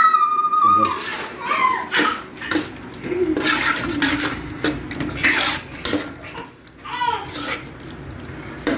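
A metal spoon stirring and scraping in a cooking pot of thick sauce, with irregular scrapes and clinks against the pot and a short squeak at the start.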